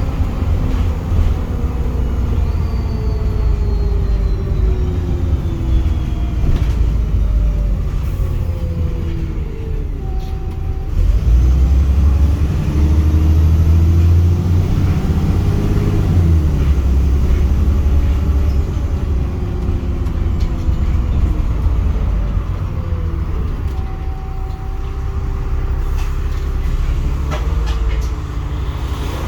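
Bus engine with a blown exhaust, its note falling as the bus slows, then rising and at its loudest as it pulls away about a third of the way in, holding steady and easing off again near the end.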